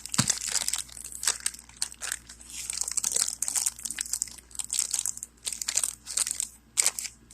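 Plastic packaging bag crinkling and crackling in irregular bursts as it is handled and pulled open.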